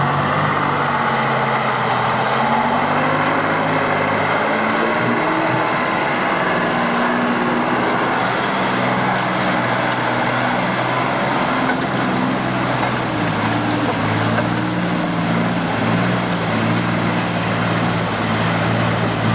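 Heavy truck diesel engine running continuously under load, its pitch shifting up and down.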